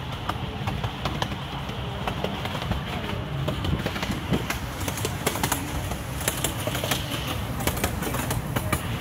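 Amusement-park miniature train rolling along its track, heard from a riding passenger car: a steady low rumble with many quick clicks and rattles, which come thicker in the second half.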